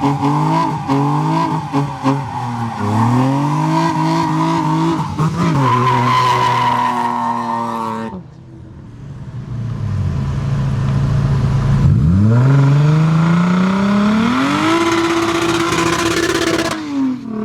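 Car engine revving hard and accelerating, its pitch climbing and falling back in steps as it runs up through the gears. After a brief quieter dip it revs up sharply and holds at high revs for a few seconds before letting off near the end.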